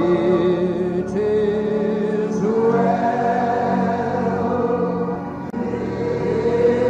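Congregation singing a slow hymn together, many voices holding long notes that move slowly up and down in pitch.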